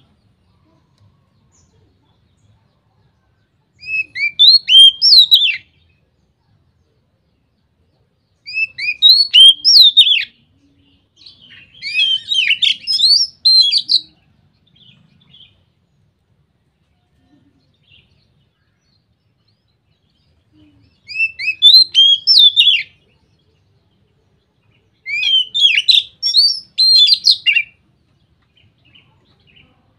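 Oriental magpie-robin (kacer) singing in loud, open full song (ngeplong): five phrases of rapid, sweeping whistled notes, each a second or two long, with pauses of a few seconds between them.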